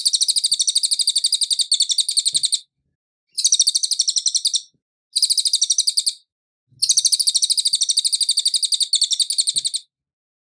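Cililin songbird singing fast, high, evenly repeated trills in four bursts, with short pauses between them. The song stops a little before the end.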